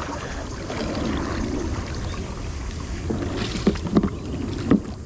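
Kayak being paddled: the paddle splashing and dipping in creek water, with three sharp knocks in the last couple of seconds.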